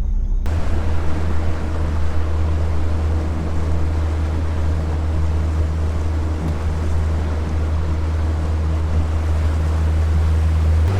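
Boat motor running steadily under way, a low drone with water and wind rushing past; it starts abruptly about half a second in.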